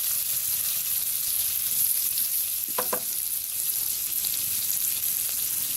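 Onion and garlic frying in a pan, a steady high sizzling hiss. A brief squeak comes about three seconds in.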